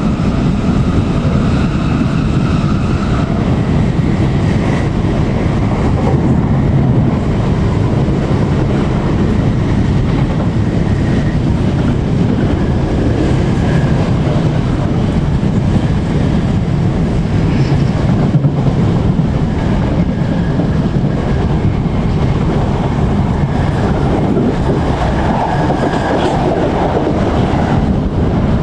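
Running noise heard inside a Class 455 electric multiple unit moving along the track: a steady, loud rumble of wheels on rail, with faint whining tones that come and go.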